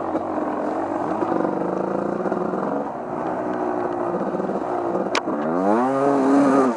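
Off-road vehicle engine running under way, its pitch rising and falling with the throttle, with a sharp click about five seconds in and a rising rev near the end.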